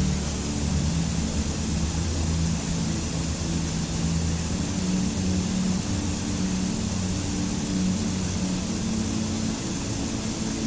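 Slow ambient music of sustained low drone-like tones that shift slowly in pitch, over a steady even hiss of running water.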